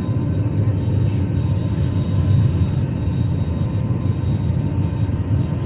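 Cabin noise inside an Airbus A320 during takeoff: a steady low rumble of the jet engines and airflow, with a faint, thin steady whine above it.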